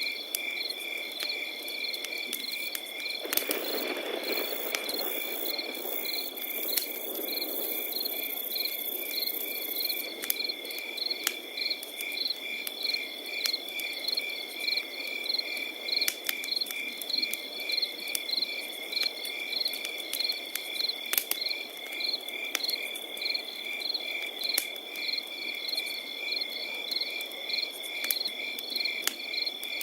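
Crickets chirping steadily, evenly pulsed chirps about three or four a second over a continuous high trill, with scattered sharp crackles from a campfire.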